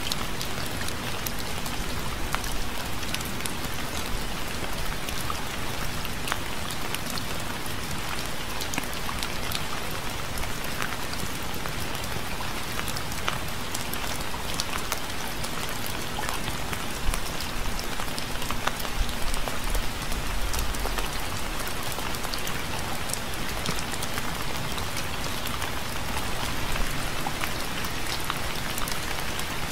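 Steady rain falling on a surface: a dense, even hiss with many separate drop ticks.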